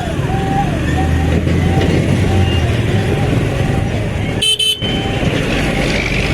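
A vehicle horn sounding a repeating warbling note, about three rises and falls a second, fading away over the first few seconds. Under it runs steady road and wind noise from a moving motorcycle, with a brief dropout about four and a half seconds in.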